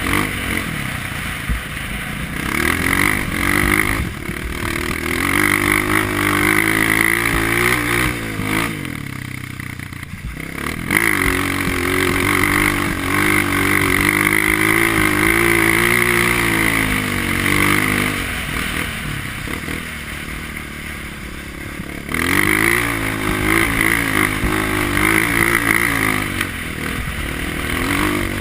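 Honda CRF230F dirt bike's single-cylinder four-stroke engine being ridden through mud, its revs rising and falling again and again with the throttle. It eases off about ten seconds in and picks up sharply a little past twenty seconds.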